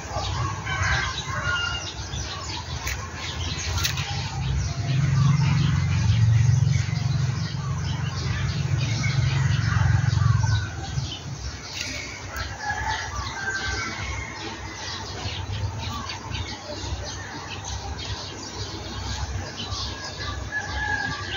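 Bees buzzing around a hive, a low hum that swells louder for several seconds in the middle and then drops back, with short chirps scattered throughout.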